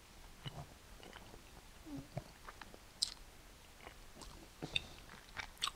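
Faint chewing of a mouthful of canned fried gobies in tomato sauce, with small scattered wet mouth clicks and a few sharper ticks.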